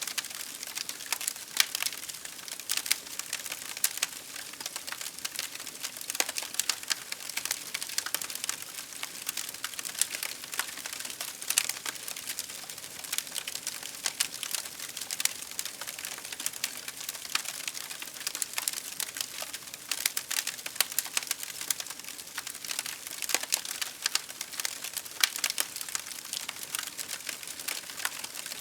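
Wood fire crackling: a steady hiss with many irregular sharp pops and snaps.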